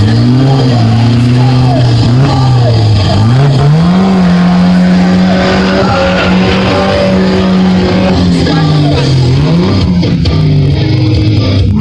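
Vehicle engine revving: it climbs in pitch about three and a half seconds in, holds a steady high note, drops back around nine seconds and rises again near the end, with music playing underneath.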